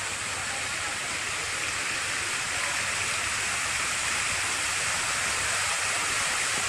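Water jets of the KLCC fountain splashing down into the lake: a steady rushing hiss that swells slightly a couple of seconds in.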